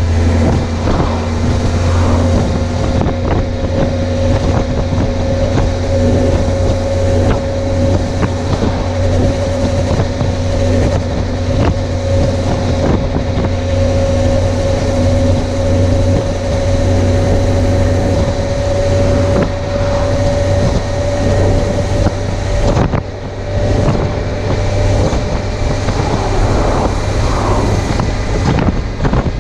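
Suzuki GSX750F inline-four motorcycle engine running at a steady cruise, its pitch creeping slowly upward, with wind rushing over a chest-mounted camera's microphone. About three-quarters of the way through, the sound briefly dips in loudness before the engine pulls on again.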